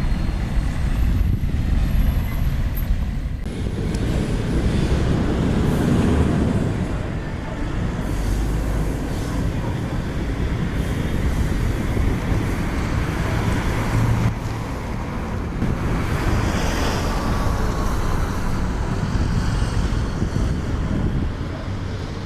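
Steady low rumble of vehicles passing close by.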